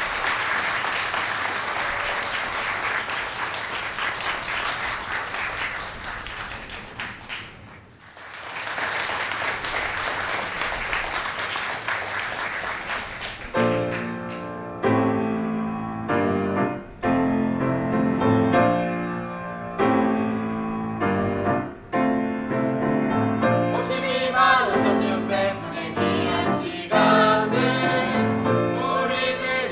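Audience applause that fades almost away about eight seconds in, then swells again, followed by piano music with clear chords starting about halfway through.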